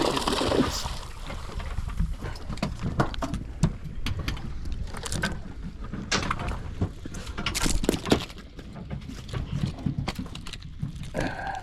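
Irregular knocks and clatters on a fishing boat's deck over a steady low rumble of water and wind.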